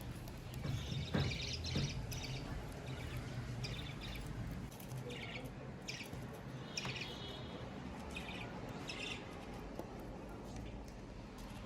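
Budgerigars chirping: short, scratchy high chirps at irregular intervals, a cluster about a second in and another near seven seconds, over a low background rumble.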